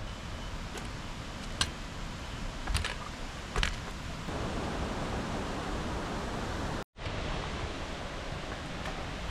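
Steady rushing of falling water, with a few sharp clicks in the first half; the sound drops out for an instant about two-thirds of the way through, then the rushing resumes.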